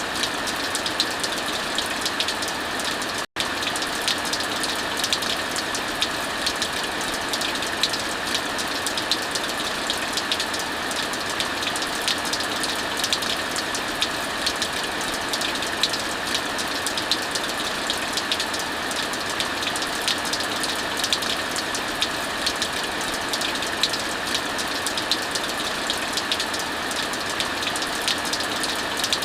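Heavy rain falling steadily, mixed with a fire crackling in many small sharp snaps. The sound cuts out for an instant about three seconds in.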